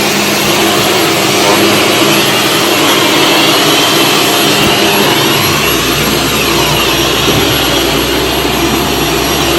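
Shark Stratos upright vacuum cleaner running steadily, a loud motor whoosh and whine, with a low hum coming in about five and a half seconds in.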